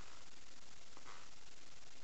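Steady hiss of recording noise, with a faint soft rustle about a second in.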